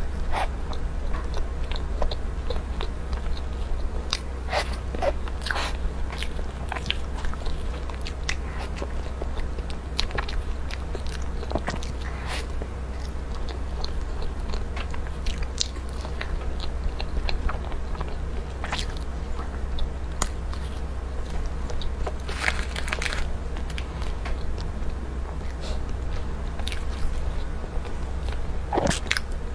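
Close-miked mouth sounds of a person chewing and biting a soft layered matcha cake, with scattered wet smacks and clicks over a steady low hum.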